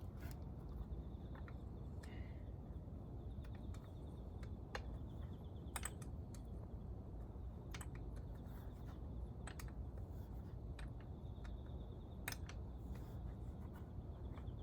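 Scattered light clicks and taps of hand tools and small metal engine parts being handled, irregular and a second or so apart, over a low steady rumble.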